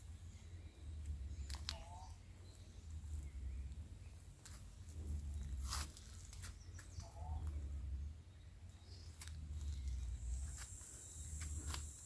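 Faint outdoor ambience: a low rumble on the microphone that swells and fades every second or so, with two short bird chirps and a few light clicks.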